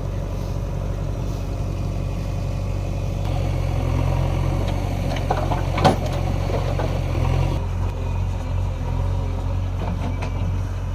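Heavy diesel machinery running steadily, the engine working harder and louder for a few seconds from about three seconds in, with a single sharp clank about halfway through.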